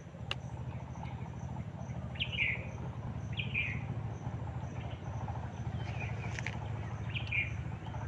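Short bird calls, four of them a second or more apart, each a brief downward sweep, over a steady low hum.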